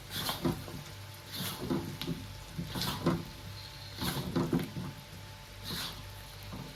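A spatula stirring chicken and potato pieces through sizzling curry paste in a pot, with repeated scraping strokes about once a second, over a steady low hum.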